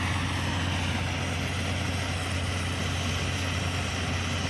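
Steady low motor hum with an even rushing hiss over it, unchanging throughout.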